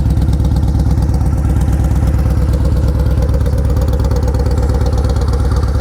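2002 Yamaha Road Star Warrior's 1670 cc air-cooled V-twin idling steadily through a Vance & Hines aftermarket header, with an even, loud exhaust pulse.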